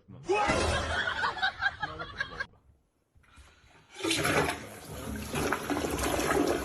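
Rushing water, in two stretches with a short break about two and a half seconds in; the second stretch is the louder.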